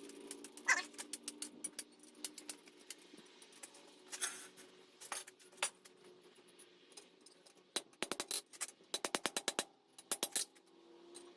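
Light hammer blows on steel in quick runs of sharp metallic taps, some strikes bouncing rapidly, over a steady low hum.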